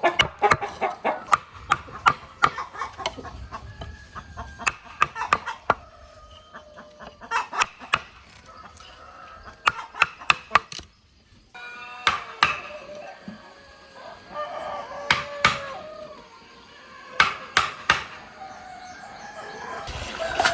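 Chickens clucking and a rooster crowing, with repeated sharp knocks like chopping or hammering on wood scattered throughout.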